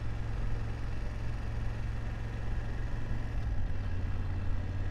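BMW F750GS motorcycle's parallel-twin engine running with a steady low hum, which settles into a more even pulse about three and a half seconds in.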